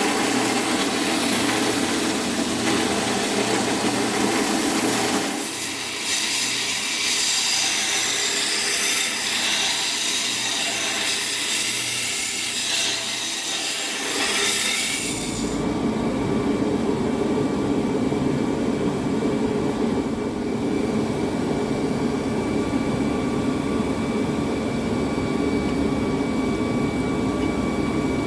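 A power tool working steel, with a loud, hissing first half. About halfway through it changes suddenly to a lower, steadier hum.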